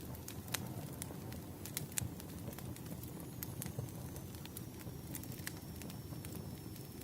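Wood fire burning: irregular sharp crackles and pops of the logs over a steady low rush of the flames.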